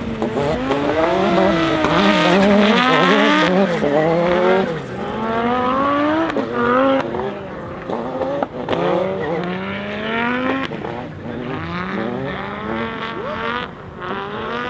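Audi Sport Quattro S1 E2's turbocharged inline five-cylinder engine accelerating hard, its pitch climbing again and again as it is run up through the gears.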